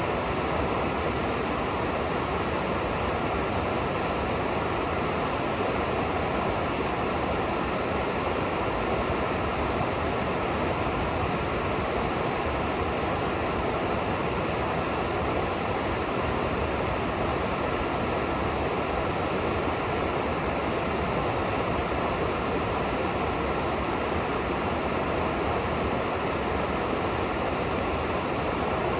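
Steady rushing of river water, an even unbroken wash with no single splashes standing out.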